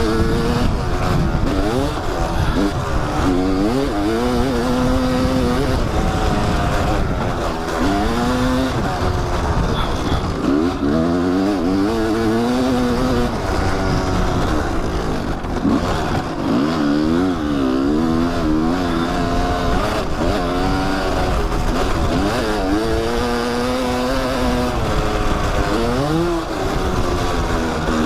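Kawasaki dirt bike engine riding a trail, its pitch rising and falling again and again as the throttle is opened and closed through the gears, over a steady rushing noise.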